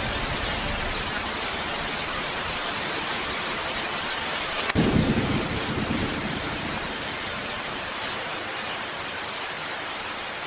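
Steady, heavy rain hissing throughout. About five seconds in, a sudden low clap of thunder swells and fades away over a second or two.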